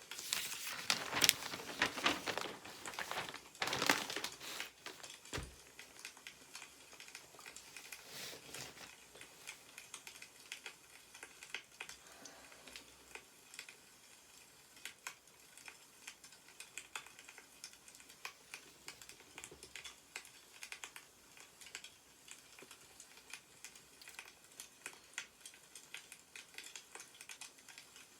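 Newspaper pages rustling and being turned, loudest in the first five seconds, followed by faint scattered ticks and crackles.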